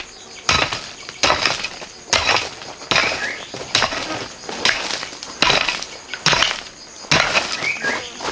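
A hand digging tool striking gravelly earth over and over at a steady pace, a little faster than one stroke a second, about ten strokes in all.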